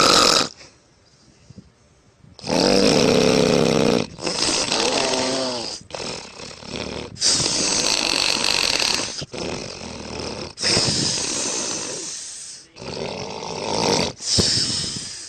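A woman snoring: after a short quiet gap, a string of long, rough snores follows one after another, some with a wavering, buzzing tone.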